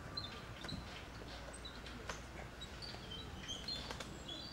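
Small birds chirping: short, high chirps scattered through, coming more often in the second half, over steady outdoor background noise, with a few faint clicks.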